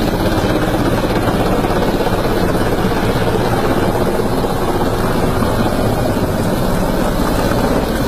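Heavy rain falling, a loud, steady, dense downpour.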